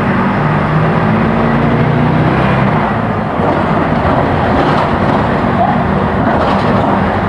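Diesel engine of a Mercedes-Benz OF-1418 bus with a Neobus Spectrum body, running under way. The engine note is steady for the first three seconds, then turns rougher and noisier.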